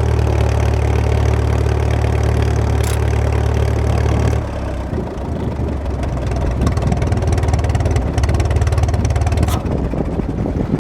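Antique tractor engine running steadily at low speed. About four and a half seconds in, the sound changes abruptly to a rougher, more rapidly pulsing engine sound.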